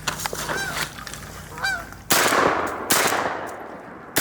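Geese honking as they fly overhead, then a shotgun fires twice, about two seconds in and again a second later, with a third shot right at the end.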